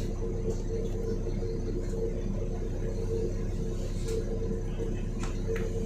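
Volvo B7RLE bus's diesel engine running steadily: a low rumble with a constant, slightly pulsing hum.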